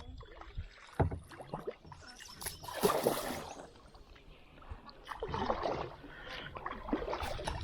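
Kayak paddles dipping and swishing through creek water in irregular strokes, with a sharp knock about a second in.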